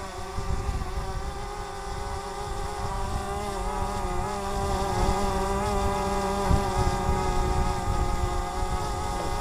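DJI Mavic Mini quadcopter hovering: a steady propeller whine at several pitches, wavering slightly as it holds station against the wind, under gusty wind rumble on the microphone.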